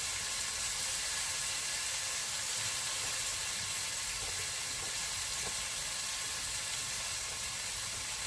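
Kebabs sizzling steadily as they cook, an even hiss.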